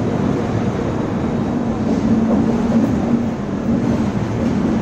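Moving express train with LHB coaches: steady running noise of the wheels on the track.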